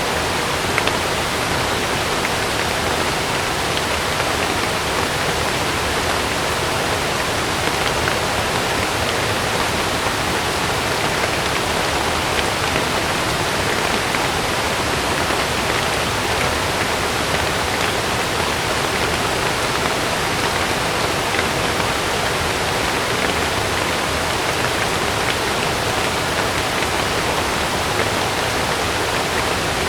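Heavy rain falling steadily on a camping tent: a dense, even hiss with a few faint drop ticks.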